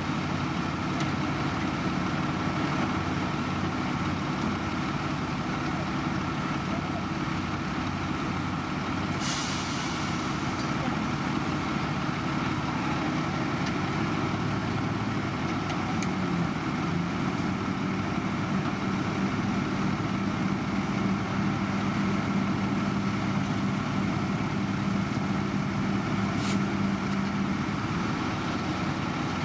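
Heavy diesel engines of road-construction machinery running steadily, with a short hiss of air about nine seconds in. A second engine note rises slightly about halfway through and holds steady until near the end.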